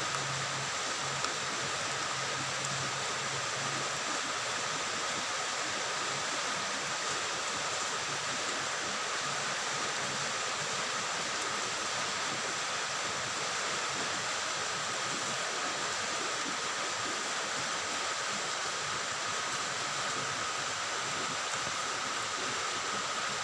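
Steady rain falling, an even hiss at a constant level throughout.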